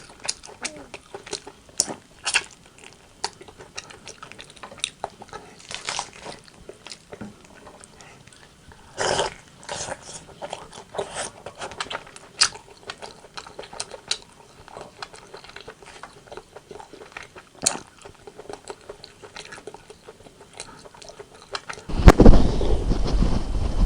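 Close-miked eating of rotisserie chicken: irregular wet clicks, bites and crunches of chewing. Near the end a sudden louder, deep muffled noise takes over.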